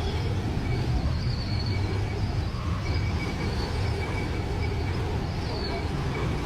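Steady low vehicle rumble, with a faint high tone coming and going.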